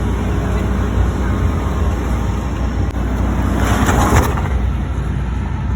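A car engine running with a steady low rumble amid people talking, and a short loud rush of noise about three and a half seconds in.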